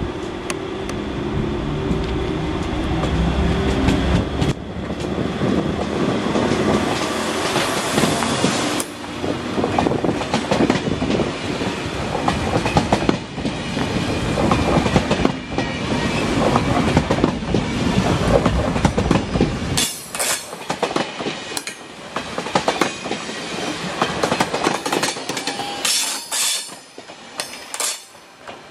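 Thalys high-speed train rolling along the adjacent track, its wheels clacking over rail joints and points. Brief high wheel squeals come in the second half.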